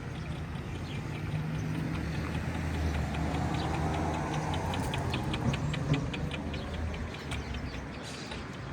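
A motor vehicle passing on the street: a low engine hum that swells to a peak around the middle and fades again, with rapid high-pitched ticks over it.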